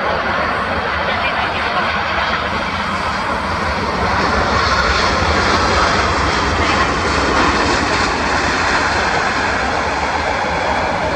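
Jet engines of an Air Canada Airbus A319 landing, a steady loud jet noise that grows louder about four seconds in.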